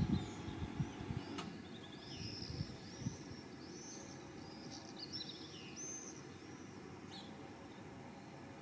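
A flock of small birds chirping over and over in short, high, arching calls. A low rumble fades out about a second in, and there is a single sharp click a little after.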